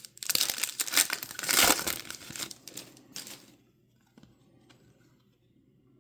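A foil trading-card pack wrapper being torn open and crinkled for about three and a half seconds, then a few faint ticks of cards being handled.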